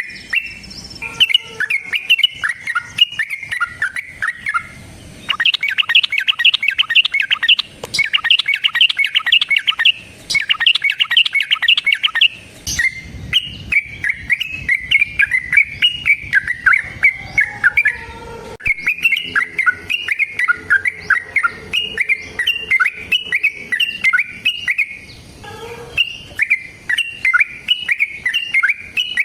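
Yellow-vented bulbul (trucukan) singing: repeated bubbly, chattering phrases. About five seconds in the phrases come in a fast continuous run for several seconds, then return to separate phrases.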